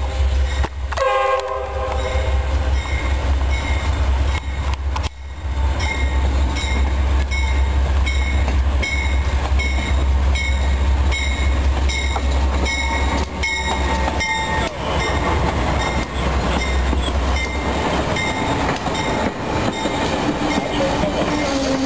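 Amtrak passenger train passing close by: the last of a horn blast ends about a second and a half in, then a steady low locomotive rumble and a regular clickety-clack of wheels over rail joints as the cars go by. A steady tone comes in near the end.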